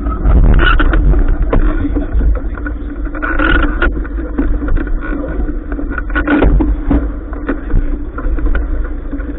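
Wind buffeting the microphone in a heavy, uneven low rumble over a steady hum, with scattered knocks and clatters, aboard a sailing yacht.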